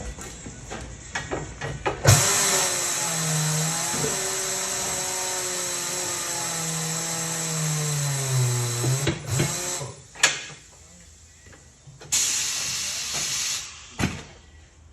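Compressed air hissing into a small tractor tire as it is inflated on its wheel: a long loud blast of about seven seconds with a wavering whistle in it, then a shorter blast, with a sharp knock between and another near the end. Small clicks come before the first blast.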